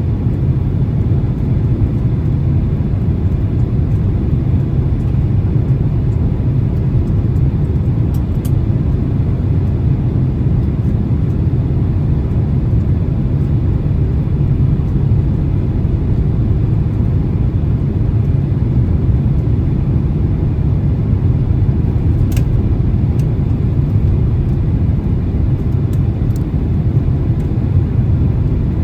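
Boeing 767-300 cabin noise on final approach: a steady low roar of engines and airflow. A few faint clicks about a third of the way in and again near the end.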